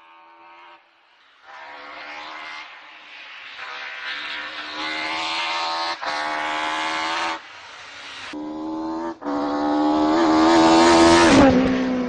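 A high-revving engine accelerating through a run of gear changes, getting louder with each, then a tyre squeal near the end.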